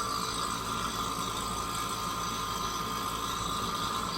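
Refrigeration vacuum pump running steadily as it pulls a vacuum on a beverage cooler's sealed refrigerant system, with a kitchen vent fan running alongside.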